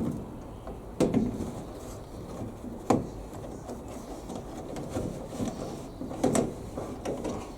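Tumble dryer panel parts being handled: a few sharp knocks and clunks, about a second in, near three seconds and just after six seconds, with small clicks and rattles between them.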